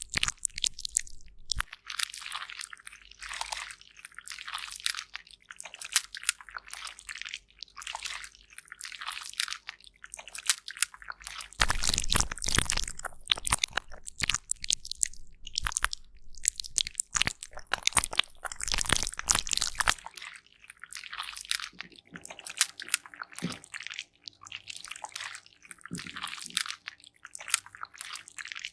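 Pressed cosmetic powder being crushed and scraped close to the microphone: a dense crackly crunching that comes in repeated strokes with short pauses.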